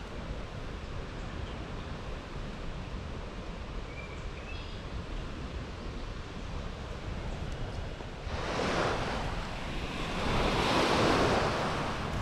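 Waves washing in on a sandy shore, two louder surges near the end, over steady wind noise on the microphone. A few faint short bird chirps come in the first half.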